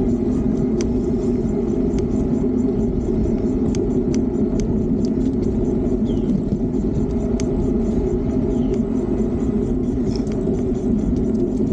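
Steady rumble of a moving electric bike ride: tyre and road noise with wind on the microphone, and scattered sharp ticks and rattles from the bike.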